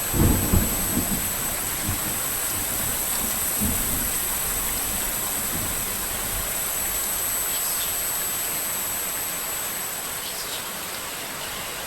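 Steady heavy rain, with low rolls of thunder in the first second and again more faintly a little before four seconds in.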